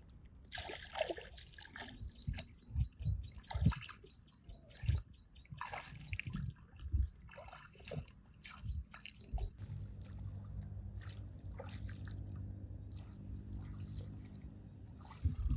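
Water splashing and sloshing in irregular bursts, as if someone is working or wading in shallow water. In the second half this gives way to a steady low hum.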